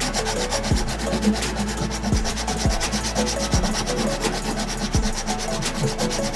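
A blade being sharpened by hand: quick, steady rubbing strokes of metal against an abrasive.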